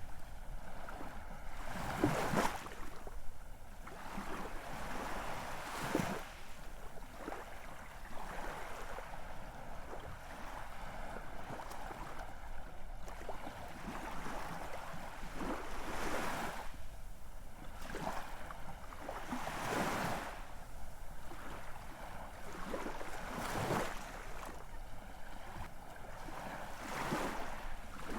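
Ocean waves washing in on a shore: a steady rush of surf with a louder surge every few seconds as each wave breaks.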